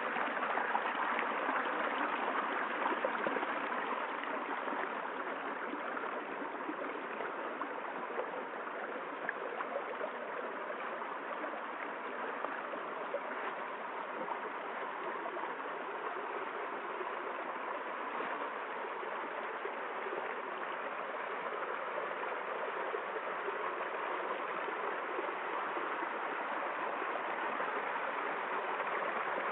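Water of a small stream flowing and gurgling over stones, a steady rushing babble.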